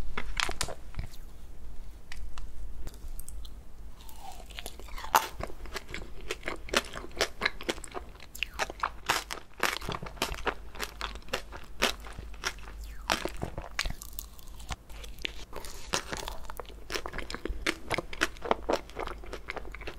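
Close-miked chewing and biting of ice cream cake, a dense run of quick, small crunching clicks and wet mouth sounds.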